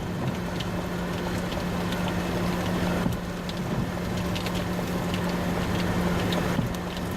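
A vehicle engine idling with a steady hum, amid wind rumble, while scattered raindrops tick on surfaces around it.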